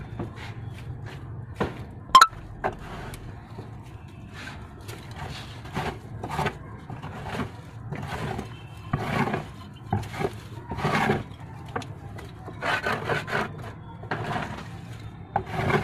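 Irregular scraping strokes of shed cleaning, some in quick runs, with a sharp knock about two seconds in.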